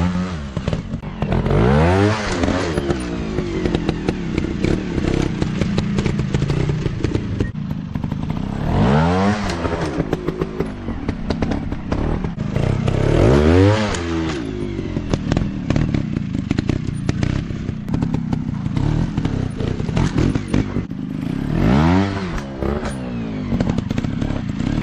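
Small trail-bike engines revving, rising and easing off in four big surges with lower running between them, and scattered knocks and clatter throughout.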